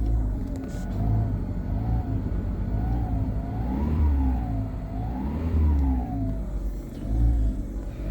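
Car engine revved over and over from idle in short blips, about one a second, with two longer, higher revs about halfway through: revving to warm the engine.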